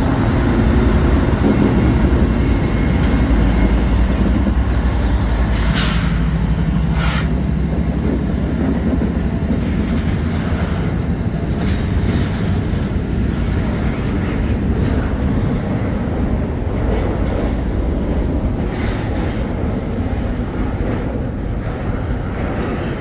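Diesel freight train in a switching move: a locomotive engine running with a deep rumble as the cars roll, a faint thin wheel squeal over it, and two sharp metallic clanks about a second apart, about six seconds in.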